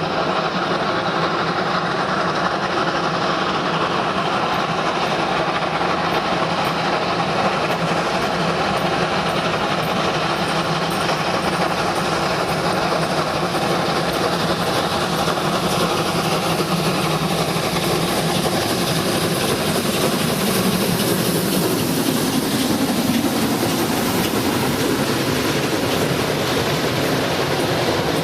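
A train running on the track, its wheels clattering over the rail joints in a steady rhythm, with a heavier rumble building about two-thirds of the way through.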